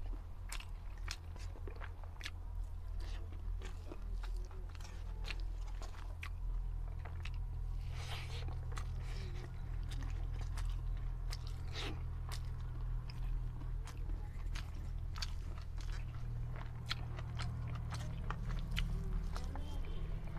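A person chewing and biting mouthfuls of rice and black chana curry eaten by hand, with many sharp mouth clicks, over a steady low hum.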